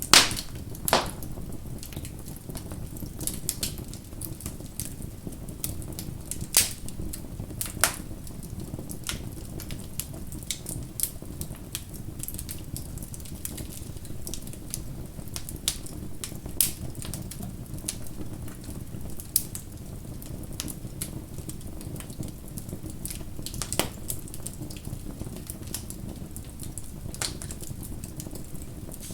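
Bonfire crackling: irregular sharp pops and snaps over a steady low rumble of burning wood, the loudest pop right at the start.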